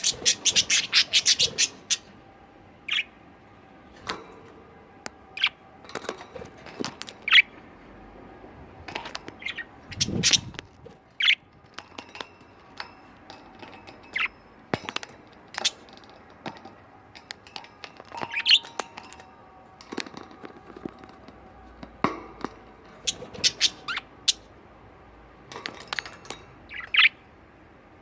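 Pet budgerigars chirping and chattering: a quick run of calls in the first couple of seconds, then short scattered chirps and clicks.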